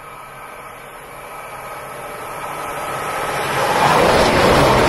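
A GWR Class 800 IET, two units coupled, approaching at speed: its rushing wheel and air noise builds steadily and turns loud as the front end passes close by, near the end.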